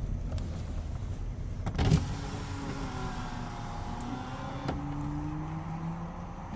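Sounds of a car: a sharp knock about two seconds in, then a steady motor whine that slowly drifts in pitch, with two light clicks a little later.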